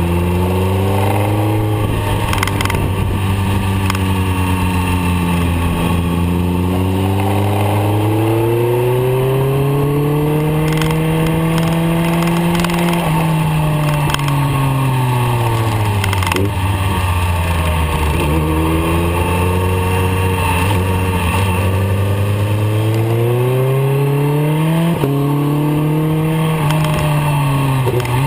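Motorcycle engine heard from on board under way, the revs climbing slowly for several seconds and dropping back twice as the rider accelerates and rolls off the throttle.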